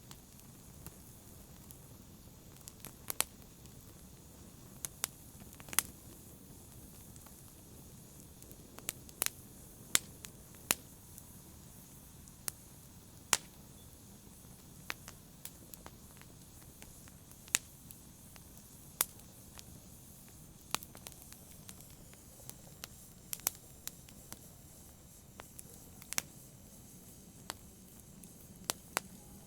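Wood campfire burning, with a steady low hiss under sharp pops and crackles that come irregularly, a few every couple of seconds.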